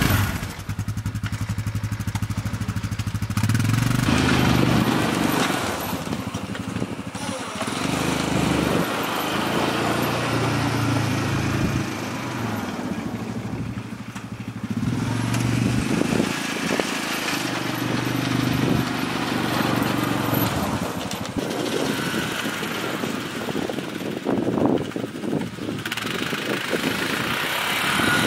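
Engine of a snow-clearing machine running and changing speed in stretches of a few seconds as it pushes snow.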